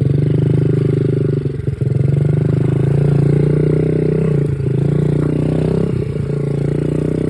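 Dirt bike engine running close by, its pitch rising and falling with the throttle, with a few brief drops in revs.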